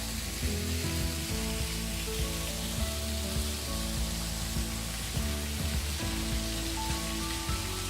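Steady rush of a waterfall, an even hiss of falling water, with soft melodic music playing underneath.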